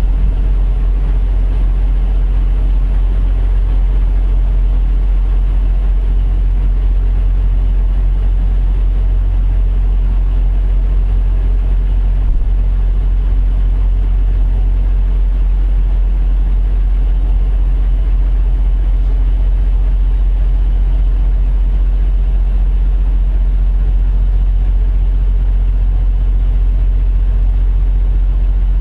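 Semi truck's diesel engine idling steadily: a deep, even low hum that does not change.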